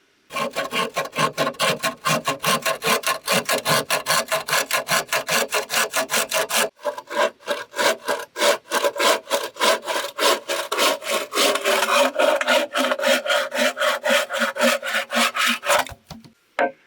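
Hand saw cutting through bamboo in quick, even back-and-forth strokes. There is a short break and a change of tone about seven seconds in, and the sawing stops near the end with a few last strokes.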